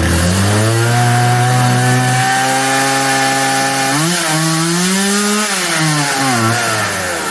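Craftsman 358.351380 chainsaw's two-stroke engine running on part choke, holding a steady note, then surging up and down in pitch about four seconds in and sagging near the end as it starts to die. It is choking on the high side.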